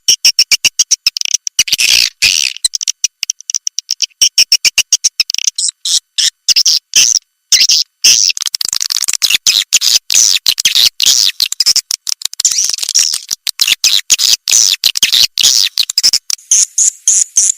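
Swiftlet lure call recording: rapid, high chirps and twitters in quick choppy runs, broken by many short gaps, used to attract swiftlets to nest.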